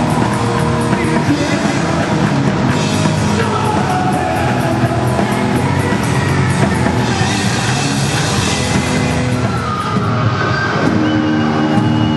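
Loud rock music with drums and guitars, in a heavy metal style; the held notes shift about eleven seconds in.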